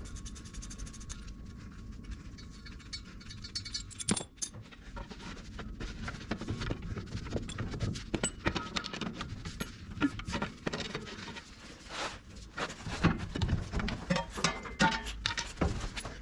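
Irregular clinks, taps and scrapes of hand tools on metal truck parts during transmission removal, with a quick, even run of small clicks in the first few seconds.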